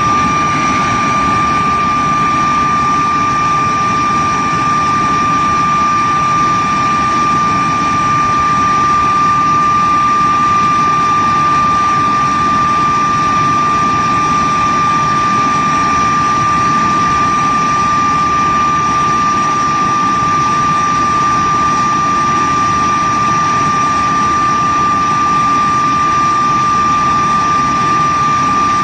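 De Havilland Vampire jet engine running steadily on a ground run, a loud steady whine held at one pitch over the rush of the exhaust.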